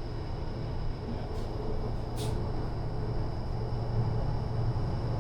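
Steady running noise inside a Northern Class 333 electric multiple unit's carriage on the move: a low rumble with a faint steady hum, and a faint tick about two seconds in.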